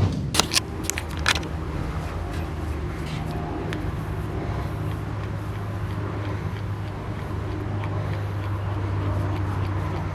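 Car engine idling steadily, with a few sharp clicks or knocks in the first second and a half.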